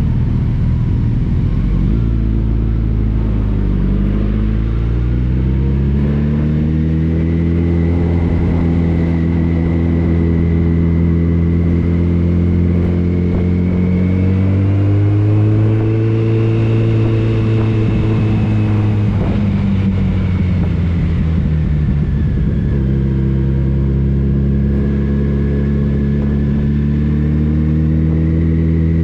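Motorcycle engine running on the road, its note holding steady for long stretches and dipping and climbing again a few times as the bike slows and picks up speed.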